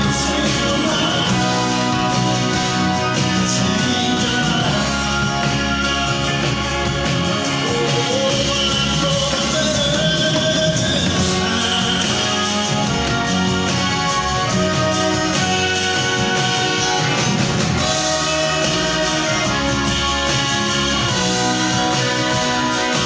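Live rock band playing with guitar and a singing voice, loud and steady.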